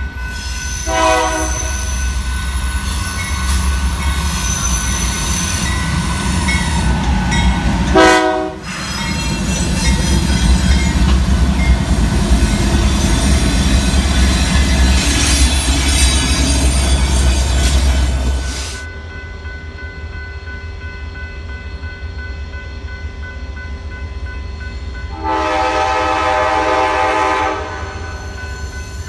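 Train horn sounding: short blasts about a second in and about eight seconds in, then a longer blast of about two seconds near the end. Under it runs the steady rumble and wheel noise of a passing train, which drops off sharply about two-thirds of the way through.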